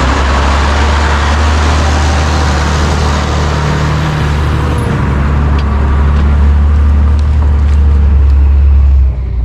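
Farm tractor engine running steadily with a deep, constant hum. It cuts off abruptly near the end.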